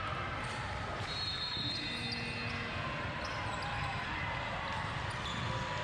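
A basketball bouncing on a gym floor during a game, over a steady background din.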